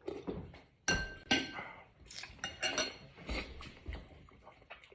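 Dishes and utensils clinking and knocking against each other, with two loud ringing clinks about a second in, then a string of softer knocks and clatters.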